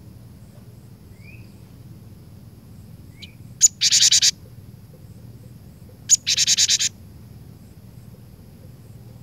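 Cinereous tit (glatik batu) giving two harsh calls about two and a half seconds apart, each a sharp note followed by a rapid buzzy chatter, after a couple of faint short chirps.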